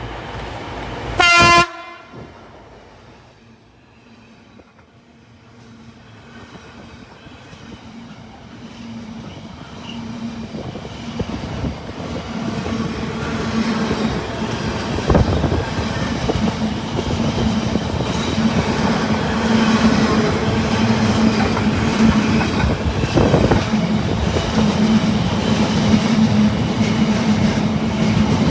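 One short, loud blast of a train horn, then a locomotive-hauled train drawing in. It grows steadily louder, with a steady low hum and wheels clattering over the rail joints.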